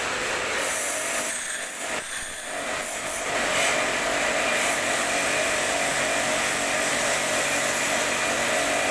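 H&L QL-1200 high-pressure jet cleaner running: its motor and pump give a steady hum under the hiss of the water spray, the hum settling into a steady tone about three seconds in.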